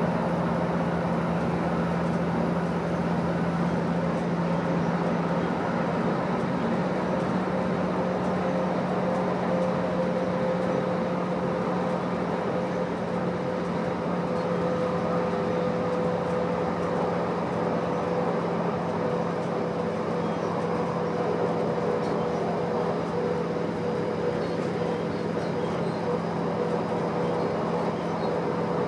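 Diesel train running steadily along the track: an even drone of engine and wheels with a constant low hum.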